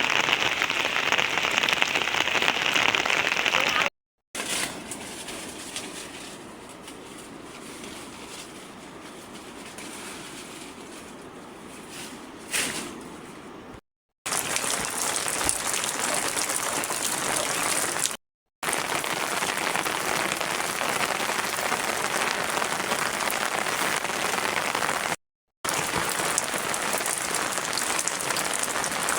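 Heavy rain falling, a steady dense hiss, heard in several cut-together shots; it is noticeably quieter in one stretch from about four to fourteen seconds in.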